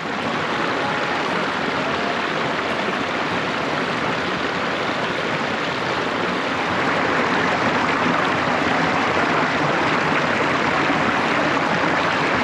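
Steady rushing of running water, like a stream or small waterfall.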